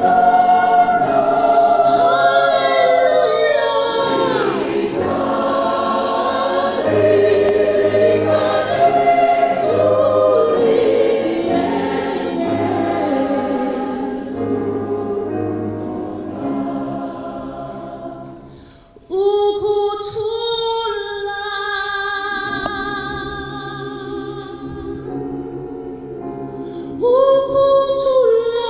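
Community choir singing in parts. The voices fade down and nearly stop a little past halfway, then come back in sharply, with a louder entry near the end.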